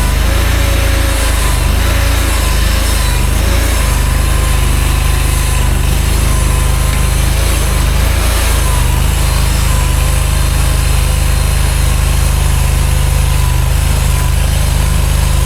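Mini skid steer's engine running steadily under throttle, its pitch dipping and shifting briefly a few times in the first few seconds and again about eight seconds in.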